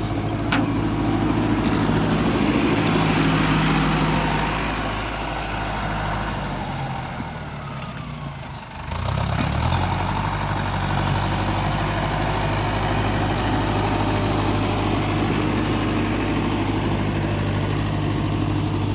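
Tractor diesel engine running steadily, easing off for a few seconds midway, then picking up again about nine seconds in and holding a steady, higher note.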